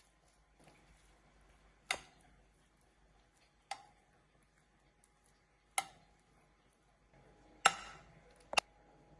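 Five sharp, irregularly spaced knocks and clinks of kitchen utensils and dishes, each ringing briefly, the loudest about three-quarters of the way through, over a faint steady hum.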